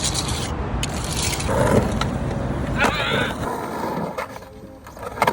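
Skateboard wheels rolling on pavement with a rough, steady rumble, while people shout and holler twice. The rolling drops away briefly near the end, then comes back with sharp clacks.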